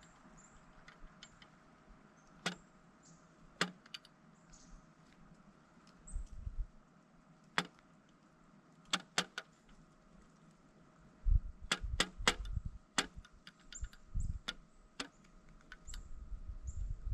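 Pileated woodpecker pecking at a suet feeder: sharp, irregular knocks, some single and some in quick runs of three or four, with bursts of low rumble between them.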